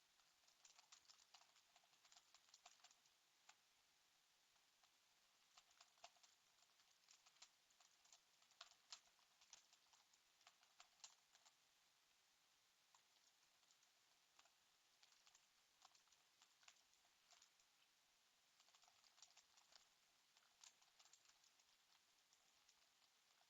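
Faint typing on a computer keyboard: bursts of quick key clicks with short pauses between them.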